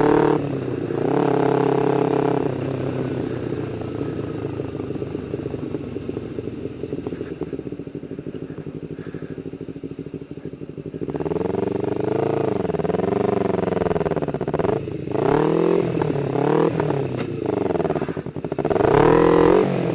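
Motorcycle engine running, with a short rev about a second in, then a steadier, lower stretch. From about halfway it revs up and down repeatedly.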